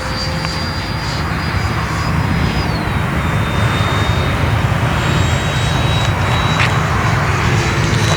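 Electric ducted-fan model F-22 jet in flight: a steady rushing fan noise with a thin high whine that drops in pitch about three seconds in.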